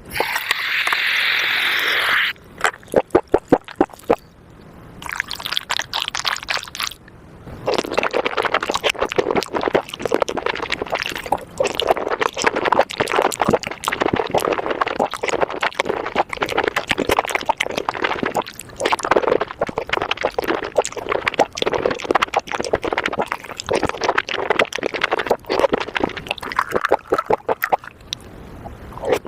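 Close-miked eating sounds: wet chewing, smacking and slurping of spicy mushrooms in sauce, a dense, irregular run of squelchy clicks. It opens with a brief steady hiss lasting about two seconds.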